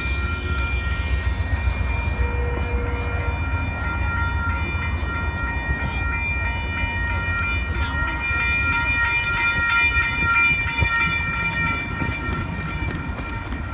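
Amtrak diesel locomotive at a station, a steady deep engine rumble with a high, steady whine over it that swells a little about two-thirds of the way through.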